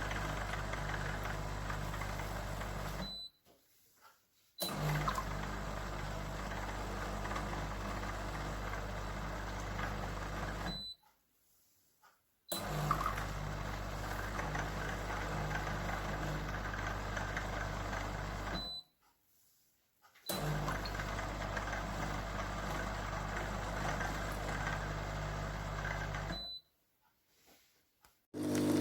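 De'Longhi Dinamica Plus bean-to-cup coffee machine running with a steady mechanical hum, in four stretches of about six seconds, each cut off abruptly by a gap of near silence about a second and a half long.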